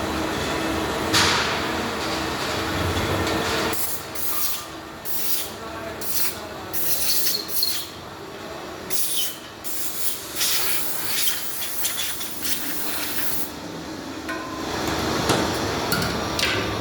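Workshop machinery running with a steady hum, and a run of short hissing bursts through the middle.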